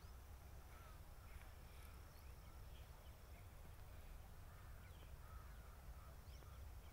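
Faint open-field ambience: a low steady wind rumble with scattered short distant bird calls.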